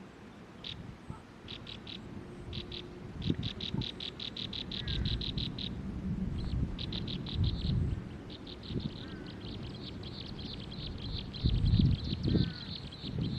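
A small bird giving fast trains of high, clipped chirps, first in short bursts, then nearly without a break from about eight seconds in, with a few short falling whistles mixed in. Low rumbles, likely wind on the microphone, are loudest near the end.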